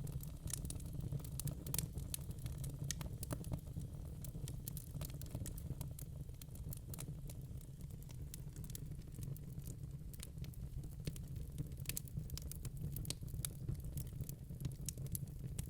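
Wood fire burning in a fireplace, crackling with many quick, irregular pops over a steady low rumble.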